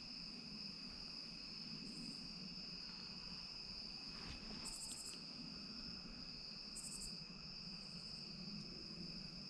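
Steady, high-pitched trilling of an evening insect chorus, cricket-like, with two short, even higher buzzes about five and seven seconds in.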